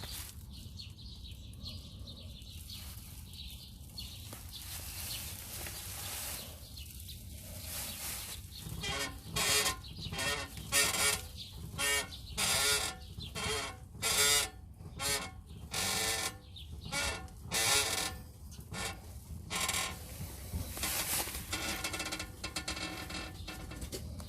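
Peugeot 206 CC rear axle squeaking, a dozen or so high, creaky squeals at about one a second. It is typical of worn rear axle (trailing arm) bearings.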